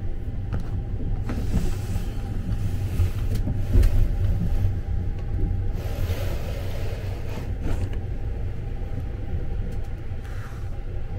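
Sunrise Izumo 285-series electric sleeper train running, heard from inside the compartment: a steady low rumble with a faint hum, and rushing, rattling noise that swells a second or two in and eases off near the end.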